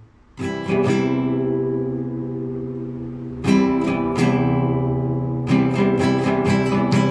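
Solo acoustic guitar, played as classical guitar. A rolled chord is struck under a second in and left to ring and fade, another comes about halfway through, and quicker repeated chords follow near the end.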